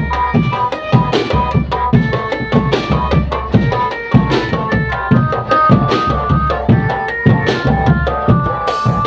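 Indonesian marching drum band playing: snare and bass drums beat a steady rhythm under a melody of short pitched notes, with one long held note near the end.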